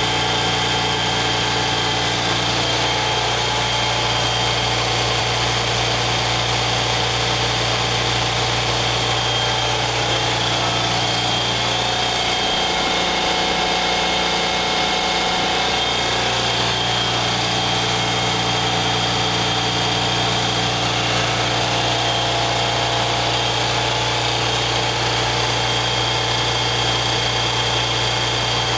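BMW R90/6 air-cooled flat-twin engine running at a steady speed on a chassis dynamometer, during a fuel-mixture check after a top-end overhaul; the mixture reads quite rich.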